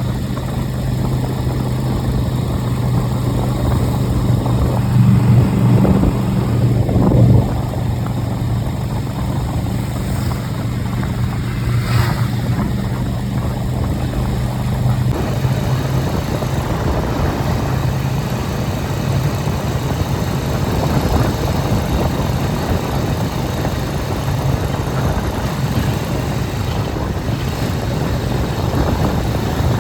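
Motor vehicle engine running steadily with a low hum, which changes about halfway through.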